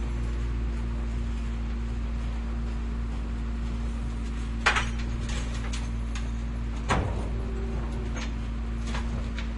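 Garbage truck engine running steadily with a low rumble and a steady hum, while sharp knocks and clatters sound over it, the two loudest about halfway through and a couple of seconds later, with a few lighter ones after.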